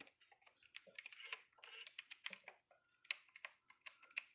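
Light, irregular clicks and taps of hands handling a portable VCR's plastic casing and buttons.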